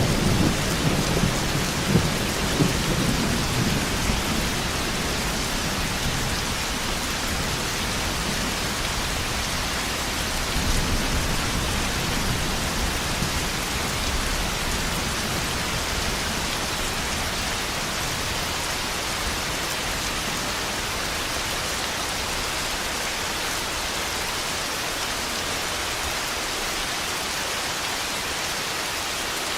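Thunderstorm: heavy rain falling steadily, with a roll of thunder that rumbles at the start and fades over the first few seconds, and a weaker rumble about ten seconds in.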